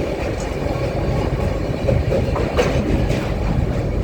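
A moving train: a steady low rumble with a few sharp clicks from the wheels about halfway through.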